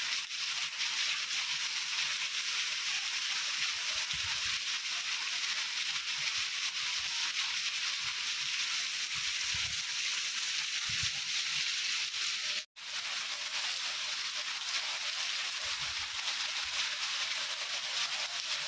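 Rain falling steadily, a continuous even hiss, with a few faint low rumbles and a momentary dropout in the sound about two-thirds of the way through.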